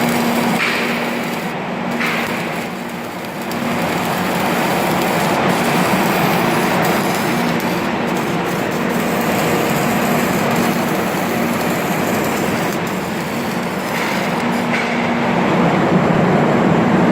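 Loud, steady industrial noise with a low hum running through it, which fades out briefly a few times.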